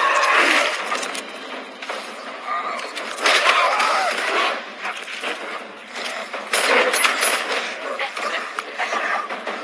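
Dogs fighting: snarling and yelping in irregular bursts.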